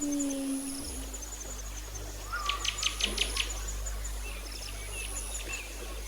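Pet budgie chirping softly, with a quick run of about six sharp clicks about two and a half seconds in, over a steady low hum.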